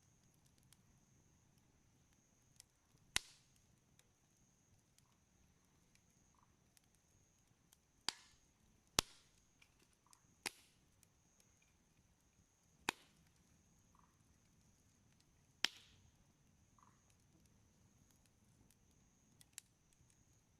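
Wood burning in a campfire, crackling: about six sharp, loud pops at irregular intervals, with fainter ticks between them.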